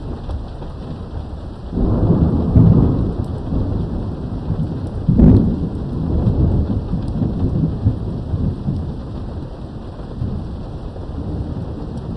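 Thunderstorm: steady rain, with a roll of thunder breaking in about two seconds in and a sharper, louder crack about five seconds in, the rumble then rolling on and slowly easing.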